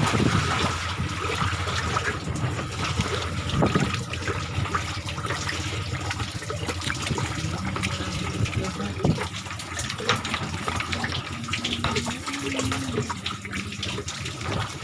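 Water rushing and splashing along a small boat's hull, with a low steady hum beneath.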